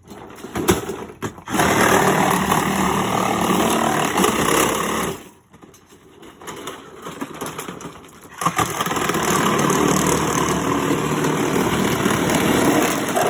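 Cordless power saw with a wood blade cutting through a dishwasher's housing in two long cuts, the second starting about halfway through, with a few seconds of lighter handling noise between them.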